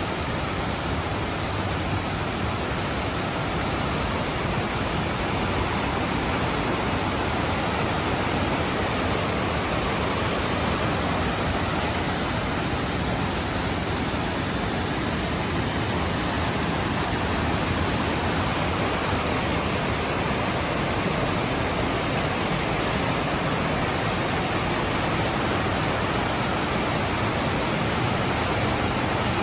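Fukiware Falls, a broad waterfall running at heavy volume after rain, making a steady full rush of falling water.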